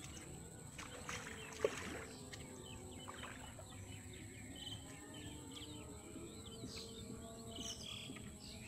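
Small birds chirping repeatedly, more often toward the end, over a low outdoor background, with a single sharp knock about a second and a half in.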